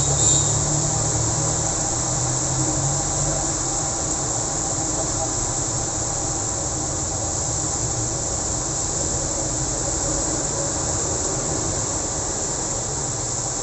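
Steady rain hissing down on a busy road, with the low rumble of passing traffic, heaviest in the first few seconds.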